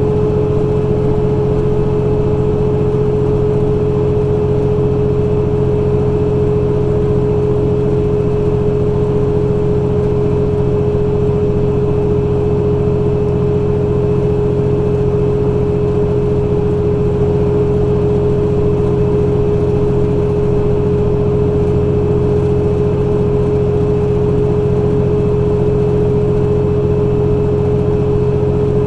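Semi truck's engine and road noise heard from inside the cab while driving, a steady drone with a constant whining tone that holds without change.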